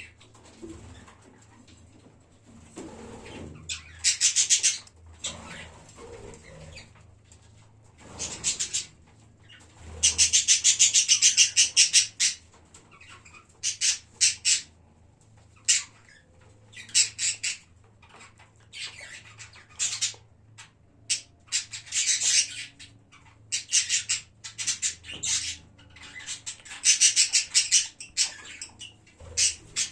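A colony of budgerigars chirping and chattering in bursts of fast, high chirps with short gaps between, the longest burst lasting about two seconds around ten seconds in.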